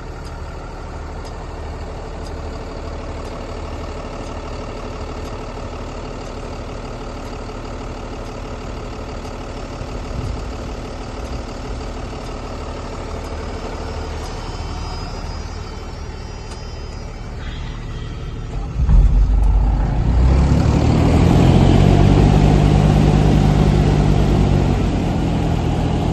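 Cummins 6.7 L inline-six turbodiesel of a box truck running at a steady idle. About 19 s in, a much louder run with a rushing noise comes in and holds before easing slightly near the end.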